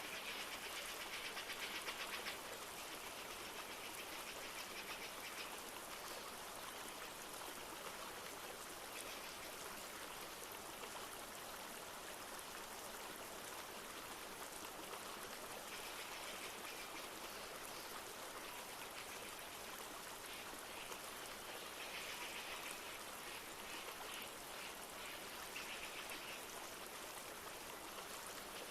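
A flowing river rushing steadily, with a few short bouts of a rapid, high trilling call over it.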